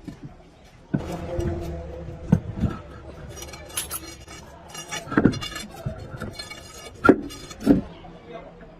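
Metal tools and parts being handled: clinking and rattling, with sharp metallic knocks about a second in, twice around two and a half seconds, once about five seconds in, and twice near the end.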